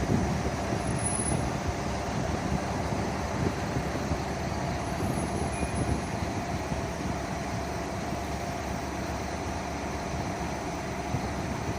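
Steady vehicle engine and traffic noise: a continuous low rumble with a faint steady hum, without breaks or distinct events.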